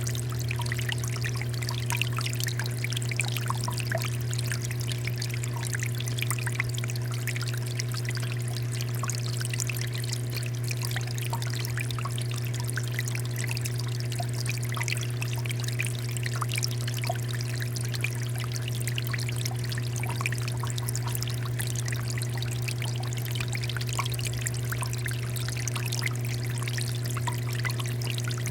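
Water fountain running, its water pouring and splashing steadily with many small droplet patters. A steady low hum sits underneath.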